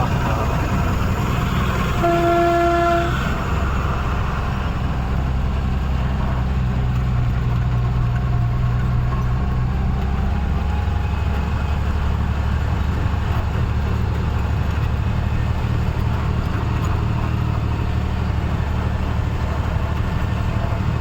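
Heavy truck engine running steadily under load. A vehicle horn sounds once for about a second, about two seconds in.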